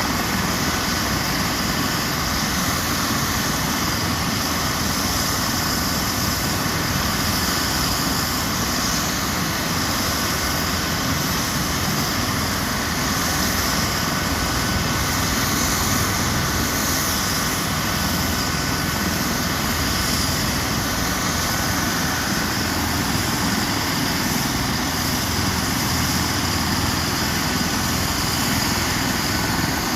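Eurocopter EC135 helicopter running steadily, its turbine engines and rotor giving a constant rush with a thin high whine on top.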